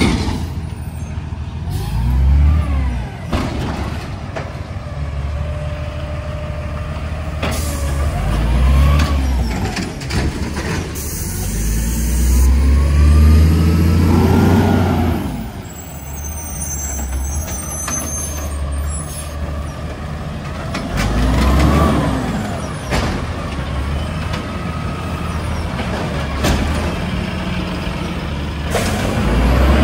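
Garbage truck's diesel engine revving up and falling back four times, loudest about halfway through, with a short hiss of air about eleven seconds in.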